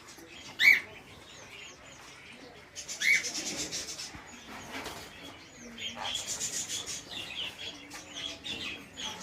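Caged birds in an aviary calling: two loud harsh squawks, one near the start and one about three seconds in, over many short, high chirps repeated throughout.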